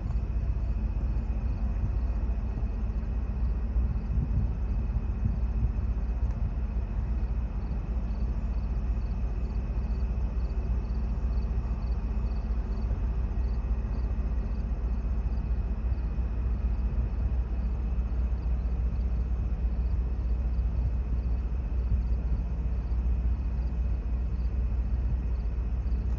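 Steady low rumble of a running car, with a faint steady high tone above it.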